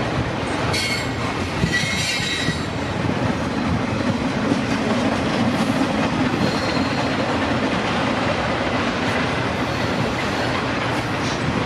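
Freight train cars rolling past steadily on the rails, with a high wheel squeal from about a second in that lasts a second or so.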